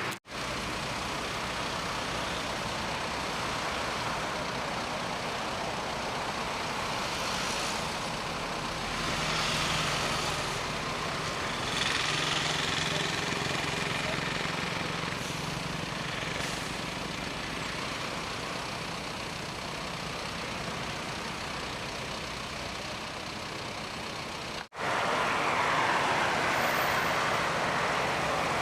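Highway traffic noise: road vehicles passing steadily, with a louder passing vehicle's engine between about nine and fifteen seconds in. The sound cuts out for a moment near the start and again about 25 seconds in.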